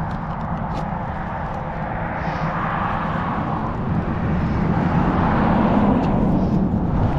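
Steady rumble of a vehicle engine running, swelling slightly about four seconds in.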